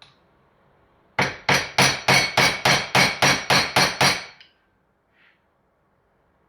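A hammer striking a screwdriver against the seal head of a Yamaha TZR 250 rear shock: about a dozen quick, ringing metal taps, roughly four a second, that stop after about three seconds. The tapping drives the seal head down a couple of millimetres to free its retaining circlip.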